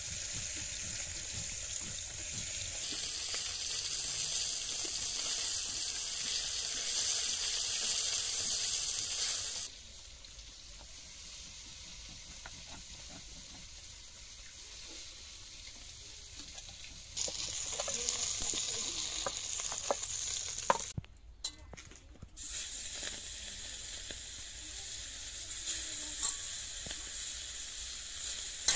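Hot oil sizzling in an iron wok over a wood-fired clay stove, mixed with the gritty scrape of a hand stone grinding spices on a flat grinding stone. The hiss jumps and drops abruptly in level a few times, and there are a few light knocks partway through.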